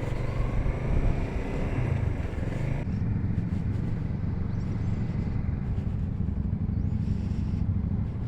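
Motorcycle engine rising in pitch as the bike accelerates. About three seconds in the sound changes abruptly to a steady low rumble of engine and road noise while riding.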